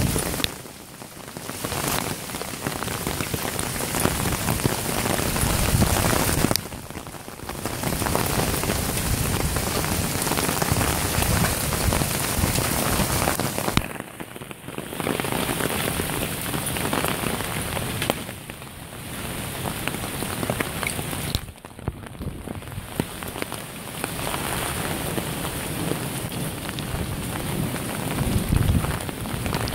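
Heavy rain pouring down, a dense steady hiss that drops away briefly several times.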